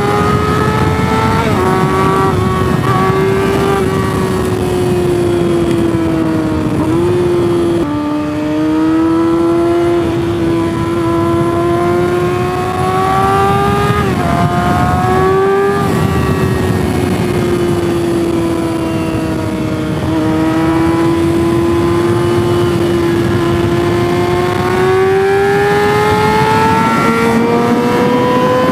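Sport motorcycle engine running hard at speed, its pitch climbing and sinking as the rider accelerates and eases off, with sudden jumps in pitch at gear changes, over a steady rush of noise.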